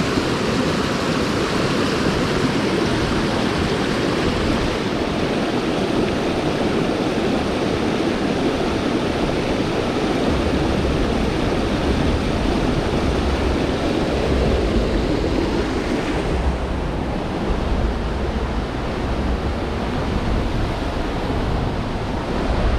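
Small waterfall, water rushing steadily close to the microphone. A low rumble on the microphone joins about ten seconds in.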